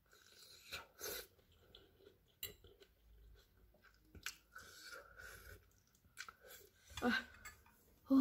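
Close-up chewing of spicy fried instant noodles, soft wet mouth sounds with small clicks.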